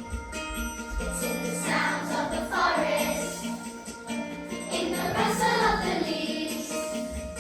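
A song on a backing track, with a group of children singing.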